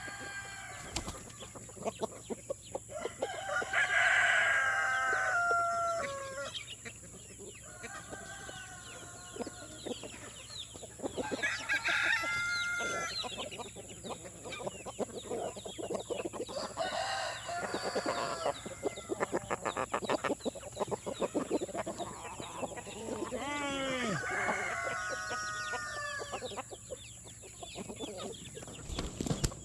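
Chickens in a flock: roosters crowing several times, about four crows spread through the stretch, over steady clucking from the hens.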